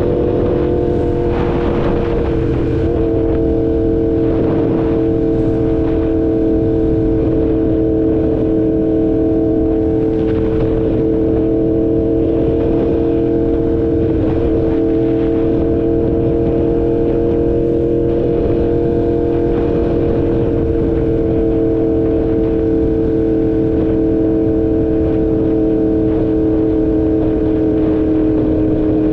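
2016 Yamaha R1's crossplane inline-four engine running at a steady cruise. Its pitch holds nearly constant, with a small dip about two seconds in and a slow fall near the end.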